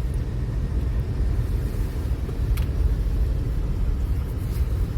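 Steady low rumble of a vehicle on the move, heard from inside the cabin: engine and road noise.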